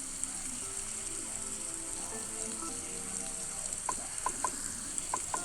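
Steady, hissing patter of rain under quiet background music, with a few light clicks in the last couple of seconds.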